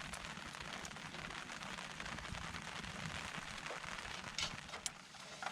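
Wood campfire crackling: a steady hiss full of small ticks, with two sharper pops near the end.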